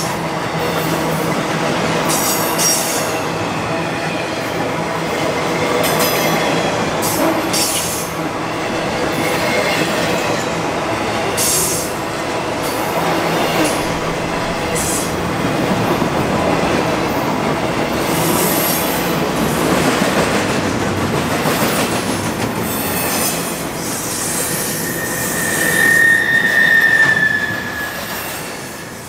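Intermodal freight train's container well cars and trailer flatcars rolling past: a steady rumble of steel wheels on rail with scattered clanks, and a brief high squeal near the end, the loudest moment.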